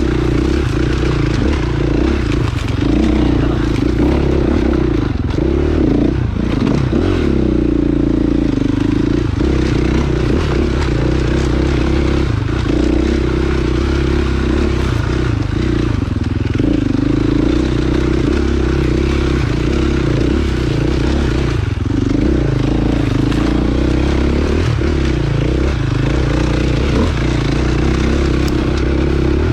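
Dirt bike engine running steadily while being ridden, its pitch rising and falling a little with the throttle, with occasional knocks from the bike.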